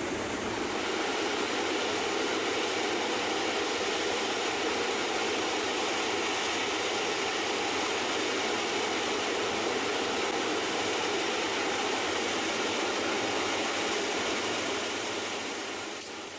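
Floodwater rushing: a steady, even rushing noise that fades out near the end.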